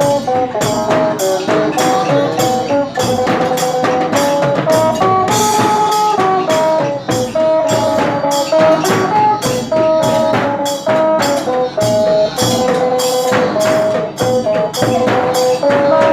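Phin, the Isan plucked lute, playing a lively melody of short repeated notes over a steady percussion beat.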